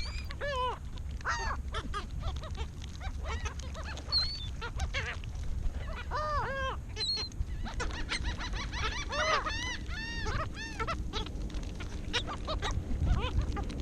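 Seagulls calling while feeding: many short calls that rise and fall in pitch, overlapping and coming thicker in the second half, over a steady low background noise.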